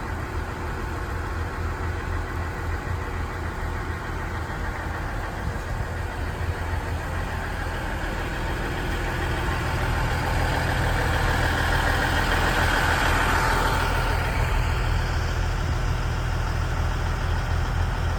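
KiHa 110 series diesel railcar engines idling with a steady low rumble. A louder, broader noise swells up around the middle and then eases off.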